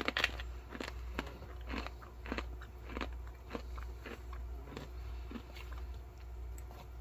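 A person chewing dried banana chips, with steady crisp crunches a little under two a second.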